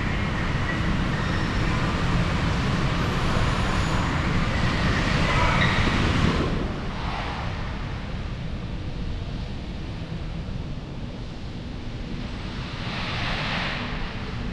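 Road traffic noise heard from a moving vehicle. The rush of tyres and engines swells to a peak about six seconds in and drops off suddenly, then a smaller swell passes near the end.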